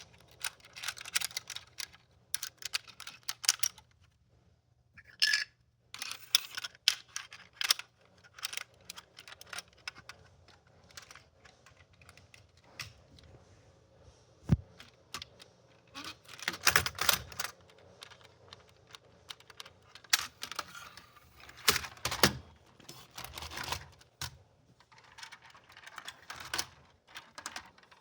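Irregular clicking and rattling of small hard objects being handled, in short clusters of quick taps with pauses between.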